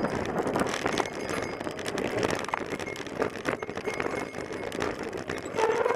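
Road and traffic noise, a steady rushing haze broken by many short clicks and knocks.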